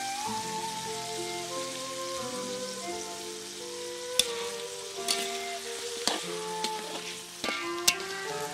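Pigeon pieces sizzling in hot oil in a steel wok. In the second half a spatula knocks sharply against the wok a few times as sauce is stirred in. Background music plays underneath.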